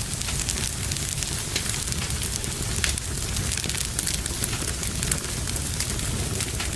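Wood fire in a fireplace crackling, with frequent small irregular pops over a low, steady rumble of flames.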